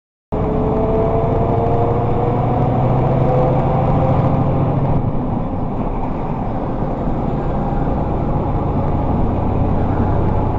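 Motor vehicle driving: steady engine and road noise that cuts in just after the start, with a faint whine that rises slowly in pitch over the first few seconds.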